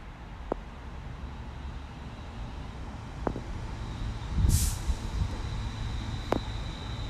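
Electric train on the line: a low rumble slowly growing louder, a short sharp hiss of air from the brakes about four and a half seconds in, then a steady high whine. A few sharp clicks come through as well.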